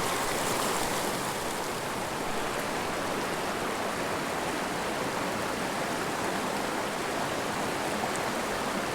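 Small mountain river rushing: a steady, even hiss of flowing water.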